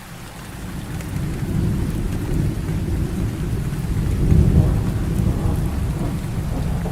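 Heavy rain falling steadily, with a long low roll of thunder that builds from about a second in, is loudest around the middle and keeps rumbling to the end.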